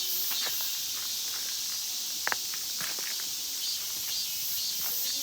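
Dense chorus of cicadas shrilling steadily, with scattered footsteps on the path and one brief sharp sound about two seconds in.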